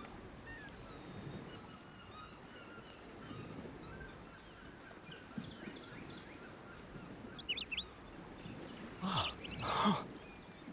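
Cartoon sound effects of birds: faint scattered chirps and cries over a low steady hiss, then two louder harsh squawks near the end.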